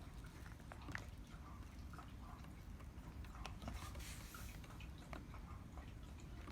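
Faint, irregular small taps and clicks of an oriental turtle dove pecking at its feed.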